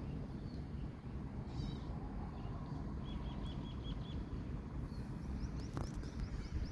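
Small birds chirping over a steady low outdoor rumble: a quick run of about six short, even notes about three seconds in, then a string of fast rising chirps near the end.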